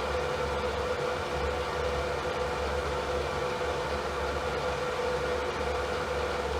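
Steady fan noise: an even rush of air with a constant low hum and a steady mid-pitched tone running through it, unchanging throughout.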